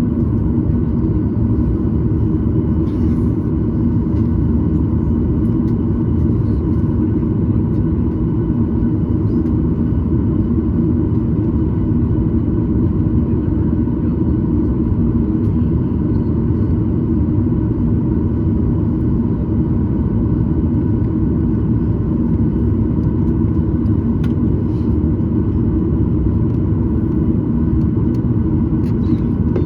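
Steady rumble and hum inside the cabin of a Boeing 737-900ER on the ground, its CFM56-7B engines at idle, with faint steady whining tones above the rumble.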